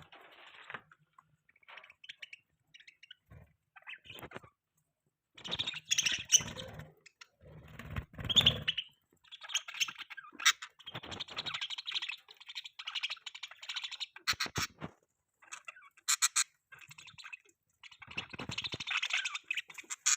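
Budgies chattering and chirping in irregular bursts of quick clicks and warbles, with short pauses in between and a few sharp clicks near the end.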